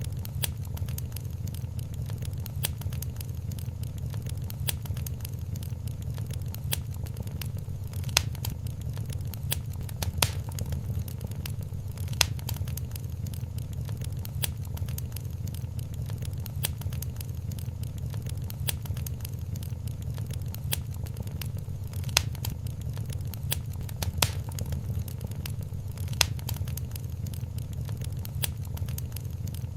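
Wood fire crackling in a fireplace: a steady low rumble with a scatter of small crackles and sharper pops every few seconds.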